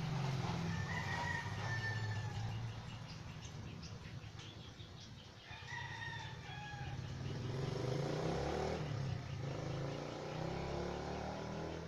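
Birds calling in the background, several separate calls a few seconds apart, over a low steady hum.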